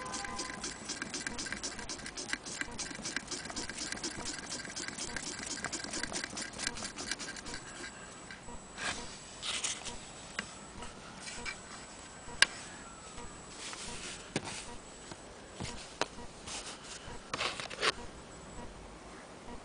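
Antique sewing machine running with a rapid, even ticking clatter that stops about seven and a half seconds in, followed by scattered single clicks and knocks.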